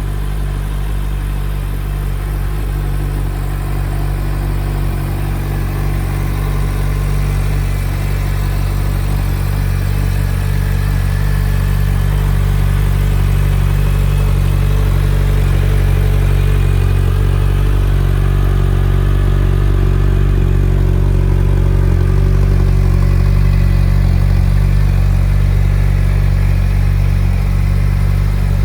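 2023 Suzuki Hayabusa's 1340 cc inline-four engine idling steadily, growing slightly louder over the first ten seconds or so.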